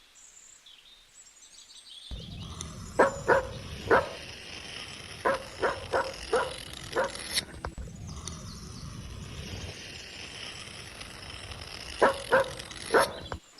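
A dog barking in short runs of two to four barks, over a steady low rumble that starts about two seconds in and stops suddenly near the end.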